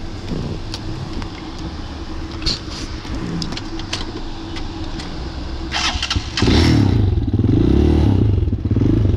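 Hawk 250 dual-sport motorcycle's 229cc single-cylinder engine starting about six seconds in after a brief cranking burst, then running and revving up and down. The wire pulled to silence the alarm was not the one that stops the bike starting.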